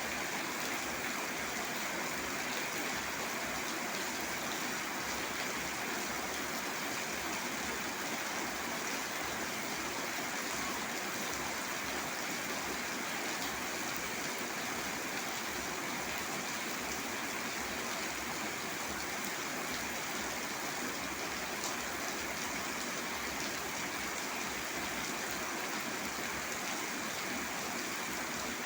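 Steady rain falling, an even, unbroken hiss that does not change.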